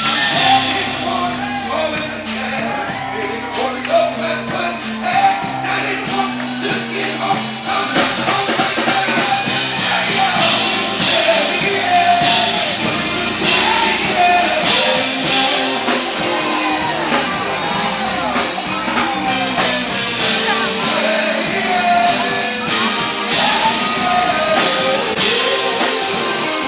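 Live band music: a singer over drum kit and bass, with quick, evenly spaced cymbal strokes in the first several seconds.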